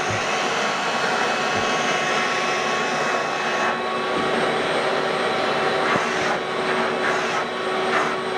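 Electric floor-cleaning machine running steadily over carpet: a continuous motor whine and hum, with the noise swelling and dipping a little as it is worked.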